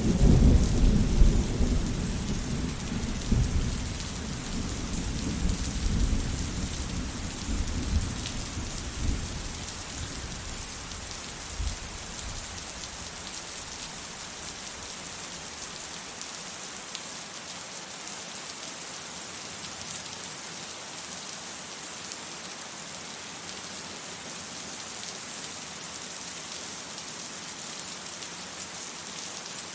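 Steady rain with a roll of thunder: a loud low rumble at the start that dies away over about ten seconds, leaving only the even hiss of the rain.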